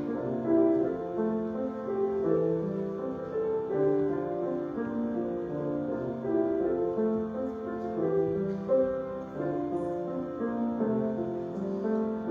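Slow instrumental keyboard music, held chords moving under a simple melody.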